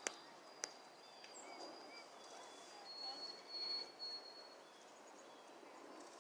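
Faint birdsong: thin, high whistled notes, one held for about a second and a half past the middle, and a few short chirps, with two sharp clicks in the first second.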